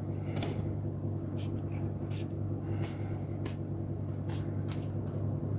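A few light clicks and taps of small model pieces being handled and set down on the layout's baseboard, at irregular moments over a steady low hum.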